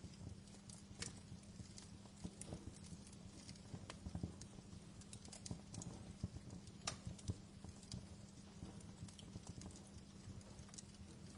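Wood fire crackling in a fireplace: irregular small pops and snaps, a few sharper ones, over a faint low steady hum.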